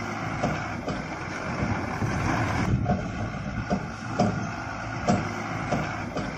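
Truck engine running steadily, with short irregular knocks every half second to a second.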